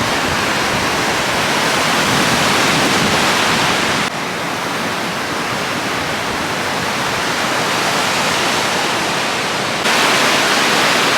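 Whitewater rapids on the Big Thompson River: a loud, steady rush of water. The level drops suddenly about four seconds in and jumps back up near the end.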